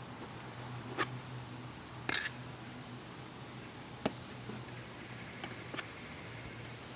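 A tool working roofing tar over screw heads on a metal roof: a few faint taps and a short scrape over a steady low hum.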